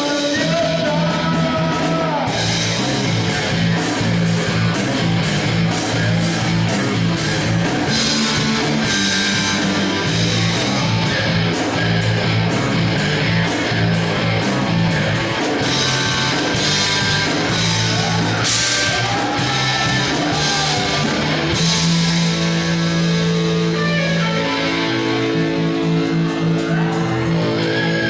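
Rock band music with singing and guitar, played continuously with a steady beat.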